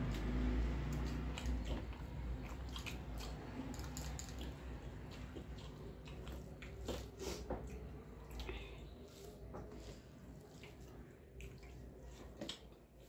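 Close wet chewing and lip-smacking of rice and chicken curry eaten by hand, a run of small mouth clicks, with fingers squishing rice on a metal plate. A low rumble sounds about the first second.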